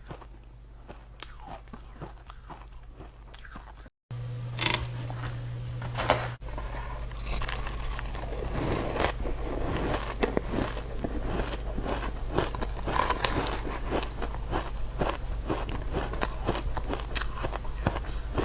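Freezer frost being bitten and chewed close to the microphone: a dense run of crisp crunches and crackles, faint at first and louder and busier from about halfway in, with a brief cut-out about four seconds in.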